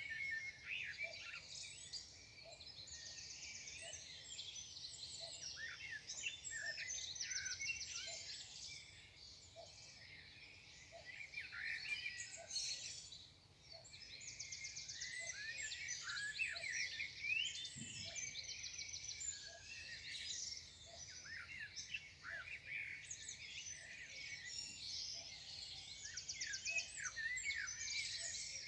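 A morning chorus of many songbirds singing at once: dense overlapping chirps and whistled glides, with several fast buzzy trills repeating every few seconds.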